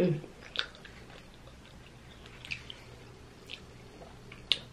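Chewing of a soft, cream-filled cinnamon-sugar dough ball: a few sparse, sharp wet mouth clicks, with a short hum right at the start.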